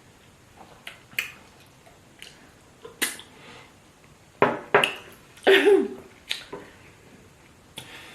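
Eating sounds from people speed-eating fufu with soup: scattered wet mouth clicks and smacks, with louder ones around the middle and a short vocal sound falling in pitch soon after.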